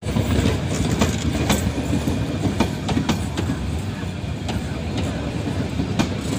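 Metre-gauge passenger train's coaches rolling past close by: a steady low rumble of wheels on rail, with irregular clicks and clacks as the wheels cross the rail joints.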